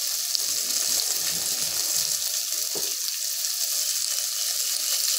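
Sliced bitter gourd, garlic, shallots and dried red chillies frying in oil in a clay pot: a steady, even sizzle as the vegetables sauté.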